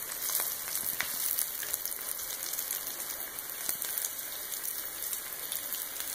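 Flour-coated rice balls sizzling in shallow hot oil: a steady frying hiss with a few sharp pops and crackles.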